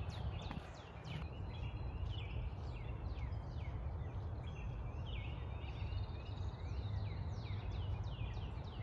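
Songbirds chirping in the woods, a rapid run of short, high, downward-sliding notes over a steady low rumble.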